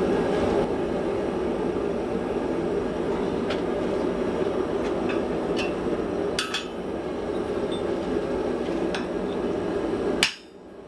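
Steady low rushing rumble of a forge heating a hammer head, with a few faint metal clinks. About ten seconds in comes a sharp clank, and the rumble cuts off suddenly.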